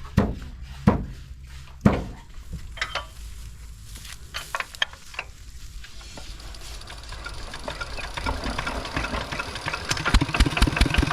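A few separate knocks, then a small engine running and growing louder, with a rapid chugging near the end.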